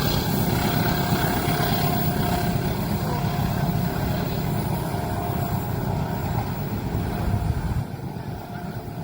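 Train passing over a level crossing: a steady, heavy rumble of wheels on rail that drops away suddenly near the end.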